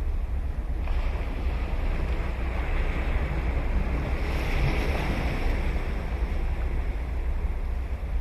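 Ocean surf: a wave breaks and washes up the sand with a rushing hiss that swells from about a second in and fades near the end, over a steady low rumble of wind on the microphone.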